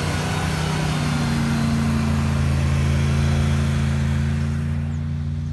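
Off-road 4x4 vehicle engine running at steady revs, its pitch holding throughout, with a hiss over it that fades near the end.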